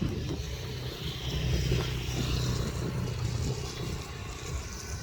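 A vehicle engine running steadily with a low hum, under a hiss of heavy rain.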